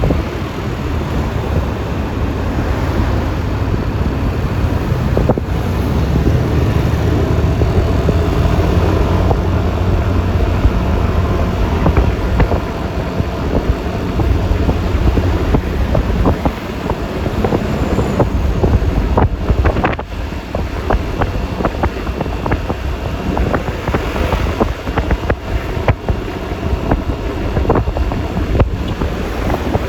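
Riding a Yamaha Lexi LX 155 scooter: its single-cylinder engine runs steadily under wind buffeting on the microphone and tyre and road noise. The loudness dips briefly about two-thirds of the way through.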